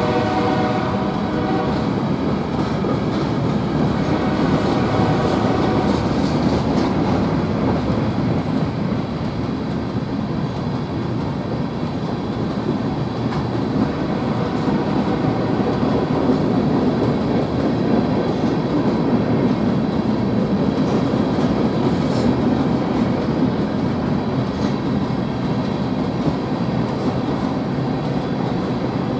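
Freight train of covered hopper cars rolling past, a steady rumble of wheels on the rails. The tail of a train horn fades out in the first couple of seconds.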